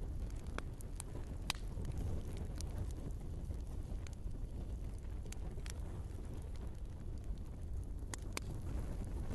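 Wood fire burning in a fireplace: a steady low roar of flames with sharp crackles and pops of burning logs scattered through, two in quick succession near the end.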